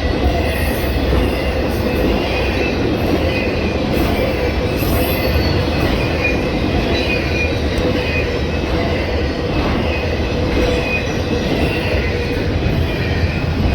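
Train cars rolling steadily past on the rails with a loud, continuous rumble. Thin, wavering wheel squeal rides over it, with a steady hum underneath.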